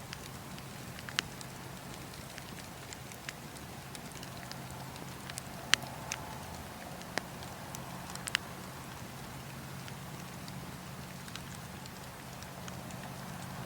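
Campfire crackling: irregular sharp pops and snaps, a few louder than the rest, over a soft steady hiss.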